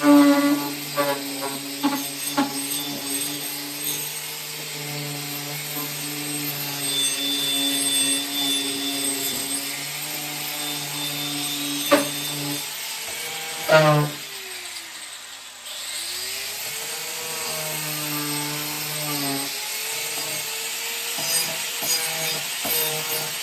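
Power saw running and cutting wood. A sharp knock comes about halfway through, then the motor winds down and spins back up.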